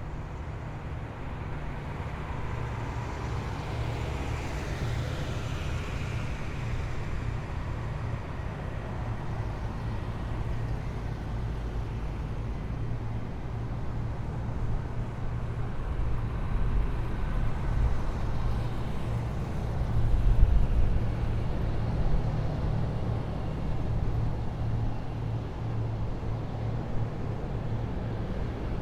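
Heavy military vehicles driving past in a column, with a deep steady engine and drivetrain rumble. A whine falls in pitch in the first few seconds, and the rumble swells to its loudest about two-thirds of the way through as a vehicle passes close.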